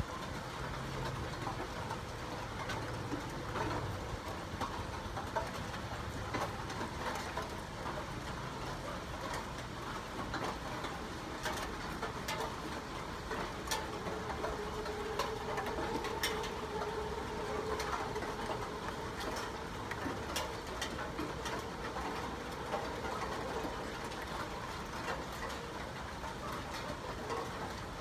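Rain falling steadily, with scattered sharp drip clicks. About halfway through, a steady low tone joins for several seconds.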